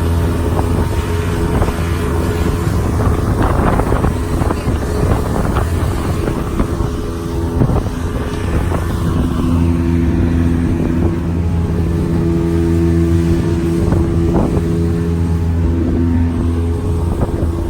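Motorboat engine running steadily, with wind on the microphone and a rougher, noisier stretch a few seconds in.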